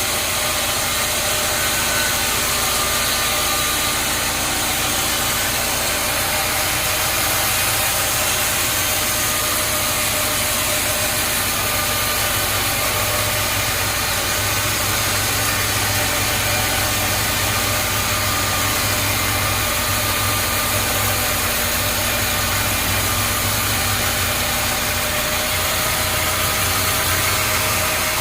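Sawmill machinery running steadily: an engine-like hum under a dense, even hiss that holds without a break.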